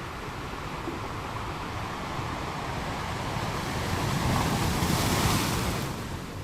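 Ocean waves on a beach: the surf builds over a few seconds to a wave breaking and washing in about four to six seconds in, then subsides.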